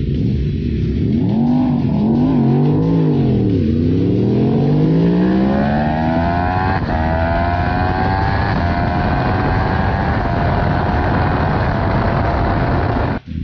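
Yamaha R1 sport bike's inline-four engine at full throttle from a launch, heard on board. The revs rise and fall a few times off the line, then climb hard through the gears, with the pitch dropping at each upshift. Near the end the revs level off and sag slightly, with wind rushing over the microphone throughout.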